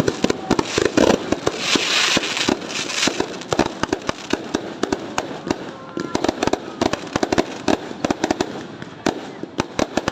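Fireworks going off in a dense, continuous stream of sharp cracks and pops, with a hissing burst about two seconds in.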